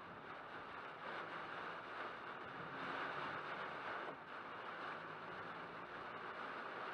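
Heavy rain in a sudden cloudburst: a steady hiss of rain and wet-road noise heard from inside a car.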